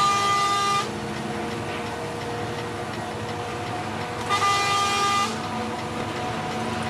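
A vehicle horn sounds twice, each blast about a second long, about four seconds apart, over the steady drone of a truck engine on the road.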